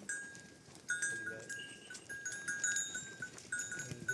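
Livestock bells on a grazing flock clinking irregularly, many short ringing strikes at the same pitch, with a brief animal bleat about a second in.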